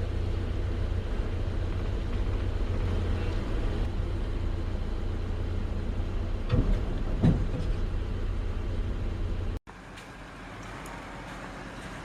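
Boat engine running steadily with a low drone. About two-thirds of the way through it cuts off abruptly, leaving only a much quieter hiss.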